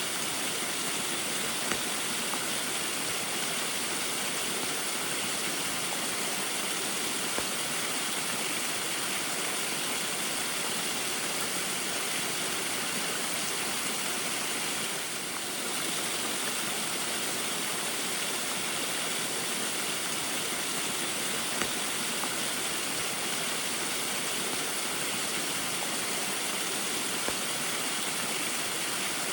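Small waterfall pouring in the rain: a steady rush of falling water with a few faint drip-like ticks, dipping briefly in loudness about halfway through.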